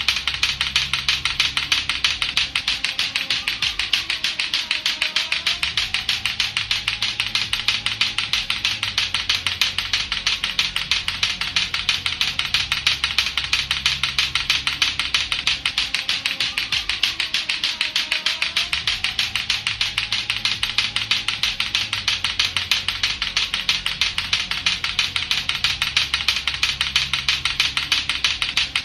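Lato-lato clacker toy, two hard plastic balls on a string knocking together in a fast, unbroken run of clacks, over quiet backing music.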